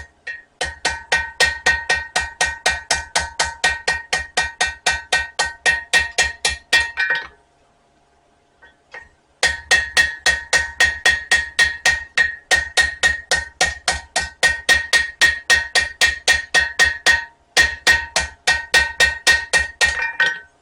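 Blacksmith's hammer striking spring steel on an anvil in quick, steady blows, about three to four a second, each with a bright metallic ring. The hammering stops for about two seconds partway through and pauses briefly again near the end. The blows are rounding off the stock.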